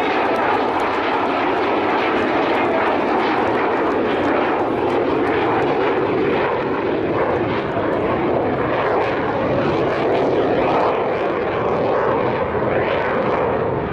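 Fixed-wing aircraft engine noise: a loud, steady roar that holds level without rising or fading.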